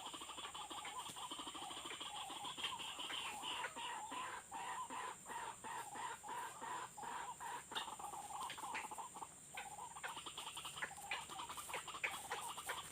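White-breasted waterhen (ruak-ruak) calling: a long run of rapid, repeated notes at a steady pitch, about three a second.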